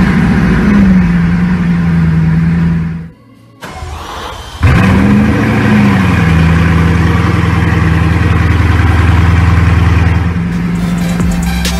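Bugatti Chiron's quad-turbo W16 engine started twice: each time it flares in a short rise and fall of revs, then settles into a steady, deep idle. The sound cuts out briefly just after 3 seconds, before the second start.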